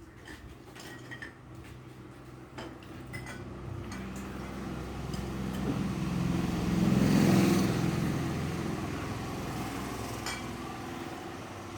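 A motor vehicle's engine passing by: a low hum that builds to its loudest about seven seconds in and then fades away. A few light clinks come in between.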